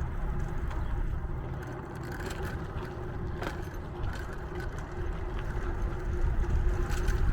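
Steady low rumble of wind and road noise from riding a bicycle, with a faint steady hum and scattered light clicks and rattles.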